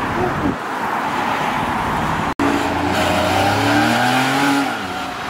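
Car engine running at speed with road noise, cut by a sudden split-second dropout about two seconds in; then one car's engine climbs in pitch as it accelerates and falls away again near the end.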